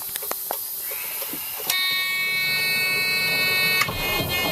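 A few clicks, then a steady electric warning buzzer from the dash of a 1989 Freightliner sounds for about two seconds with the key on. Near the end the CAT 3406 diesel engine cranks and fires, and its low rumble takes over.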